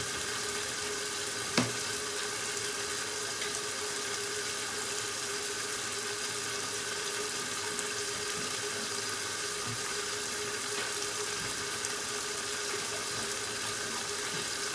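A 1969 Westinghouse washing machine filling with water: a steady rush of water into the tub, with a single sharp click about one and a half seconds in.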